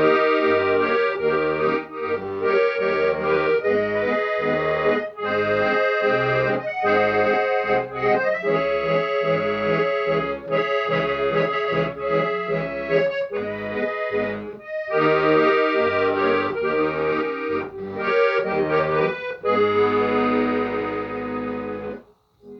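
Accordion playing a lively tune over a pulsing bass-and-chord accompaniment, ending on one long held final chord that stops shortly before the end.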